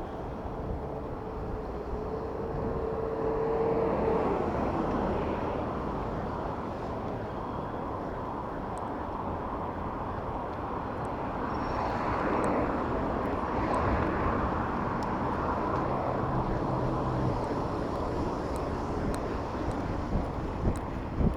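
Passing motor traffic heard from a moving bicycle: a steady wash of vehicle engines and tyre noise that swells about four seconds in and again past the middle, with a brief steady tone a couple of seconds in.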